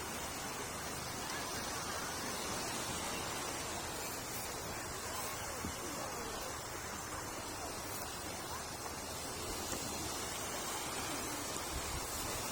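Steady wash of sea surf and wind, an even rushing noise that holds at one level throughout.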